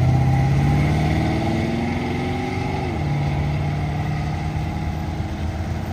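Car engine accelerating, its pitch rising for about two seconds and dropping back about three seconds in as it shifts up, then pulling steadily while it fades slightly.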